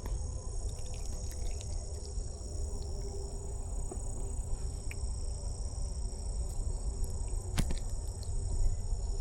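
Steady high-pitched chorus of insects trilling over a low rumble, with a few faint clicks, one sharper click about seven and a half seconds in.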